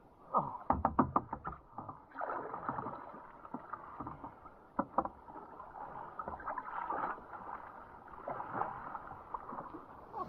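Sea kayak on the water: a quick run of about seven knocks in the first second and a half, then irregular water sloshing and splashing with scattered knocks, all sounding muffled.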